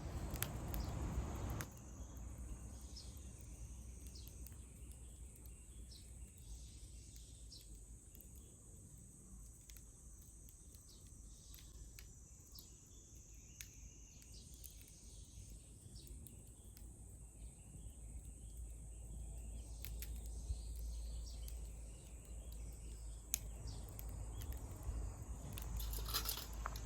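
Chorus of insects such as crickets, a steady high-pitched trill, over a low rumble with scattered faint clicks. A louder rush of noise in the first second or two stops abruptly.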